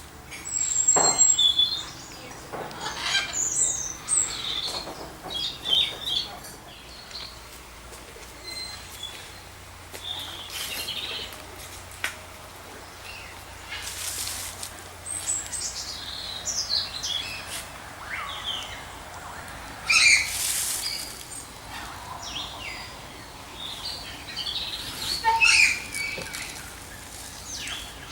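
Several aviary birds calling, with short chirps and whistles overlapping throughout and a few brief harsher, noisier calls or wing flurries.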